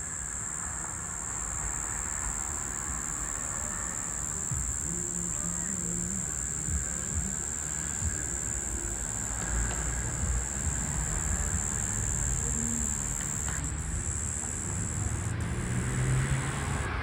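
Brown Bunyip cicada (Tamasa tristigma) calling: one continuous, steady high-pitched buzz, with a low rumble underneath.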